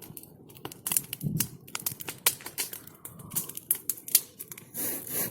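Large wood bonfire crackling, with sharp, irregular pops and snaps from the burning wood.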